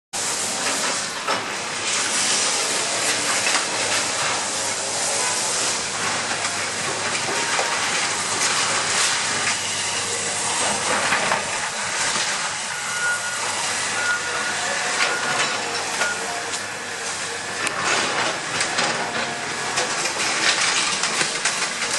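Continuous loud hissing noise with faint scattered clatter; a faint high beep repeats about once a second for a few seconds midway.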